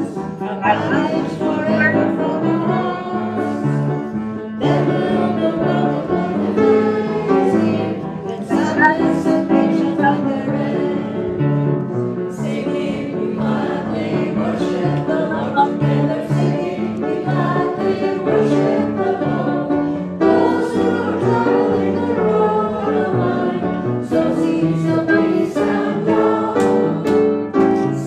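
A group of voices singing a hymn together with instrumental accompaniment, continuous and steady.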